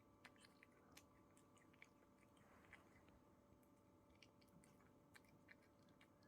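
Faint chewing: soft irregular clicks and crunches of something being eaten at close range, over a faint steady hum.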